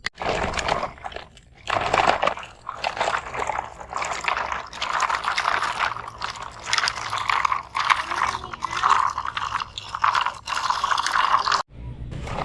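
Sand crunching and scraping around plastic toy trucks and a toy excavator being worked through it, in uneven spurts; it cuts off abruptly near the end, then starts again.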